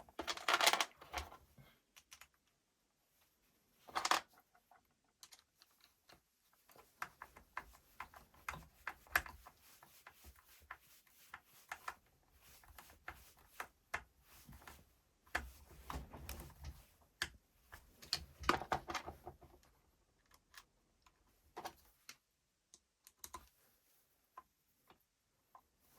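Irregular light clicks and taps of small hard parts being handled during the drill repair, with a few louder clattering knocks near the start, about four seconds in, and around the middle to later part.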